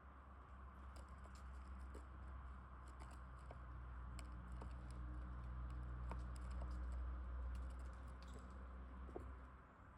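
Small birds pecking at and handling seed on a feeder: faint, irregular light clicks and taps, several a second, over a steady low hum.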